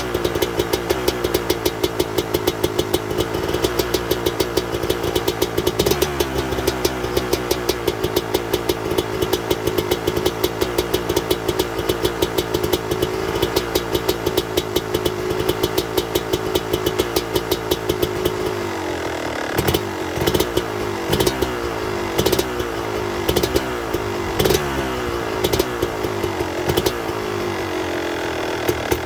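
2003 Kawasaki KX250's single-cylinder two-stroke engine running cold with the choke on after years of sitting, at a steady fast idle. About two-thirds of the way through, its firing turns uneven and irregular, with separate pops.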